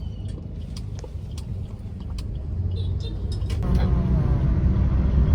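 Vehicle in motion: steady low engine and road rumble heard from on board, growing louder from about three and a half seconds in as it speeds up, with a few light clicks and knocks.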